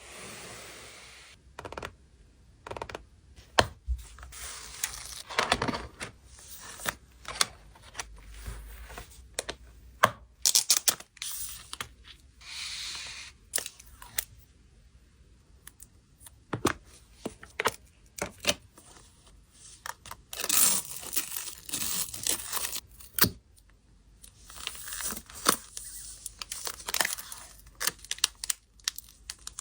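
Hands packing photo cards with paper, plastic and tape: irregular rustling and tearing with many light taps and clicks.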